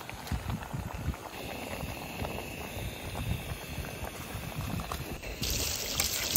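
Waves washing on the beach, a steady fizzing, crackling wash over a low rumble. A brighter hiss joins about five seconds in.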